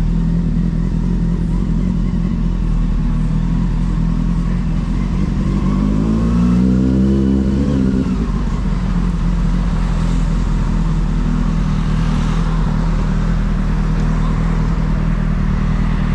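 A carbureted Honda Hornet's inline-four engine running steadily while riding, with wind noise over the microphone. About six seconds in, the pitch rises and then falls again over a couple of seconds.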